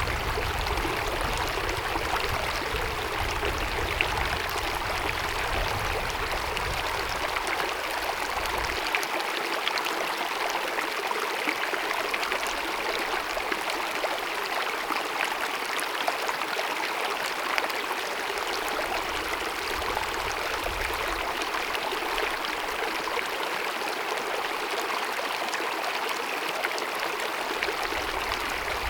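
A small glacier-fed mountain meadow stream cascading and babbling steadily.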